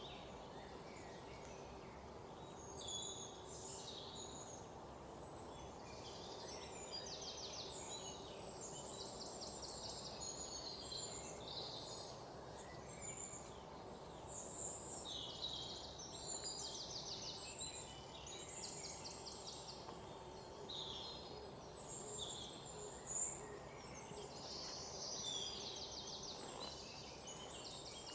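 Several small songbirds singing and calling, with rapid trills repeating among the chirps, over a steady low background hush. A single brief sharp click comes late on.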